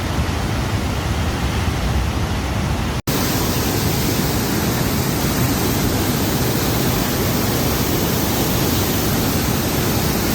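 A loud, steady rushing noise. It cuts out for an instant about three seconds in, then goes on brighter.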